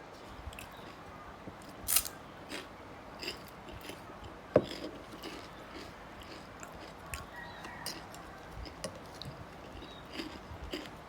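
A person eating noodles: chewing and crunching, with scattered small clicks and two sharper clicks, one about two seconds in and one about halfway through.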